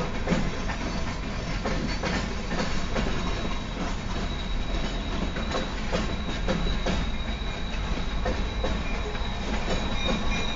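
Freight train cars, covered hoppers and boxcars, rolling past over a grade crossing: a steady rumble with the wheels clacking over rail joints, heard from inside a car. A thin, steady, high wheel squeal comes in about three seconds in and grows stronger near the end.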